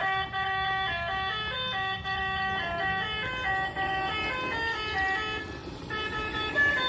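A simple electronic melody: a quick run of short, steady, horn-like notes.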